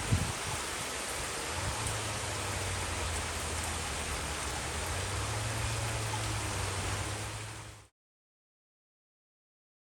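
Steady rain, an even hiss, with a thump right at the start and a low hum coming in after about two seconds. The sound cuts off abruptly about eight seconds in.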